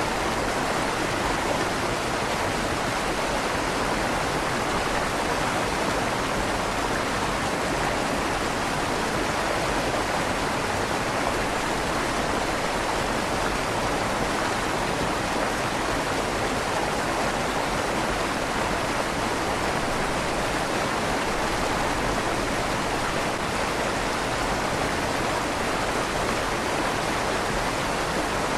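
A river flowing steadily through a stone bridge tunnel, a continuous rush of water with a slight echo off the tunnel's stone walls.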